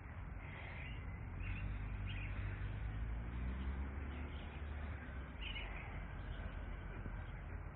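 Small birds chirping in short calls, a few times, over a steady low rumble.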